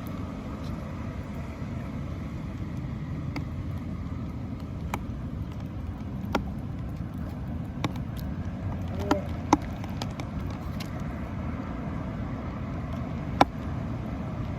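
Steady low outdoor rumble with scattered sharp ticks and knocks, the loudest about a third of the way in, twice near the middle, and once near the end.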